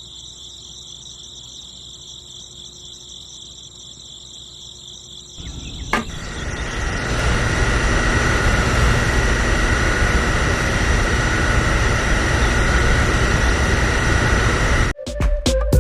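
Small motor of a homemade model tractor running with a steady high whine, then a louder, steady low-pitched running sound starts about five seconds in as the machine is driven harder. Music with a beat comes in near the end.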